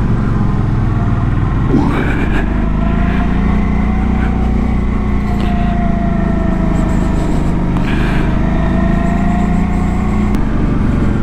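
Motorcycle engine running steadily under load on a steep uphill climb, its pitch drifting slightly up and down with the throttle, over continuous road and wind noise.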